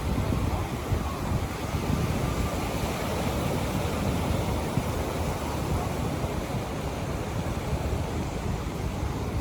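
Wind rumbling on the microphone over the steady wash of ocean surf on the beach.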